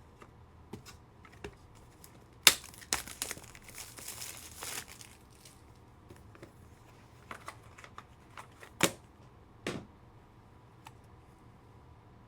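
A foil trading-card pack being torn open, its wrapper crinkling for a couple of seconds, with sharp clicks and taps from handling the cards, the loudest a sharp snap a few seconds in.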